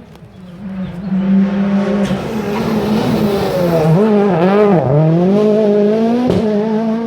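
Rally car coming up the stage and passing close under hard throttle, growing loud about a second in. Its engine pitch dips and rises several times in the middle as the throttle is worked through a bend, and two sharp cracks come near the end.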